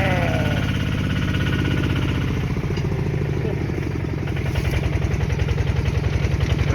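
Single-cylinder diesel engine of an e-taek farm truck chugging with a fast, even beat; the pulses become stronger about halfway through.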